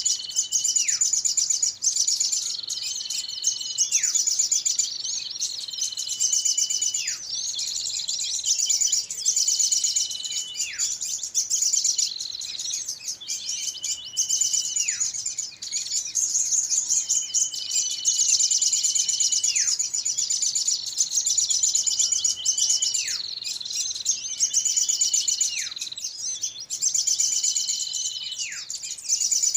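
Bird-lure recording of small birds calling excitedly: a continuous high, busy chatter with a whistled note that holds and then drops steeply, repeated about every two seconds and overlapping itself. This is the noisy 'pikat ribut' call used to draw small songbirds in.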